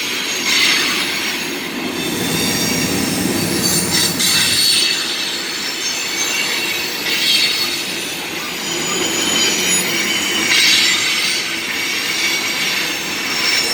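Freight cars rolling slowly past on steel rails, their wheels squealing in repeated high-pitched bursts over a steady rumble.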